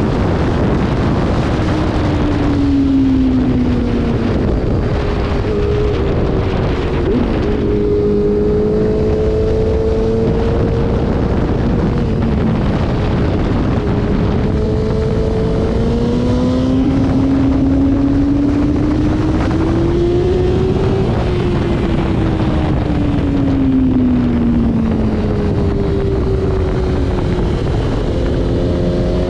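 Motorcycle engine at track speed, its pitch climbing under throttle and dropping off again several times, under a heavy rush of wind on the microphone.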